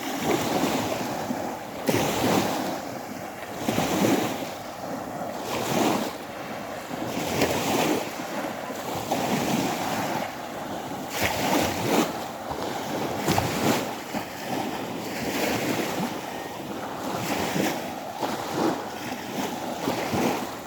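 Small waves of the Sea of Azov washing onto the shore, one swell about every two seconds.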